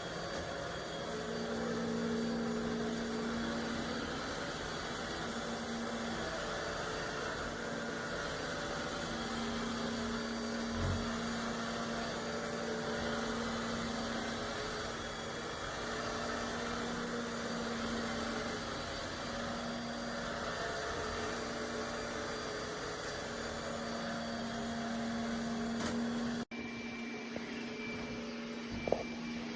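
iRobot Roomba Combo j7+ robot vacuum running: a steady motor and fan hum with a low tone that swells and fades. The sound cuts off abruptly about 26 seconds in and picks up again at once.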